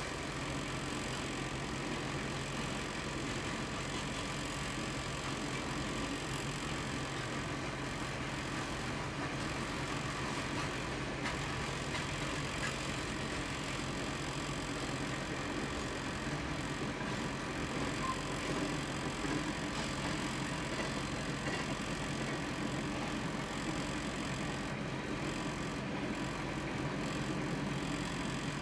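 Freight cars of a long train rolling past on the rails: a steady rumble and rattle of wheels and car bodies, heard from inside a stopped car.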